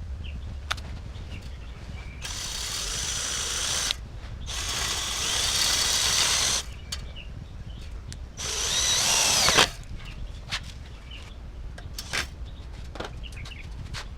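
A handheld power tool runs in three bursts of a couple of seconds each, its pitch bending as the speed changes, with short clicks and knocks between the bursts.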